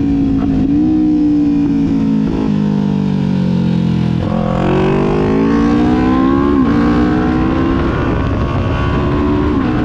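Kawasaki Ninja 400's parallel-twin engine under way. The engine note holds steady, then sinks as the bike slows from about two seconds in. Just past four seconds the revs jump and climb for two seconds under acceleration, then drop back and hold steady. Low rumble from the riding runs underneath.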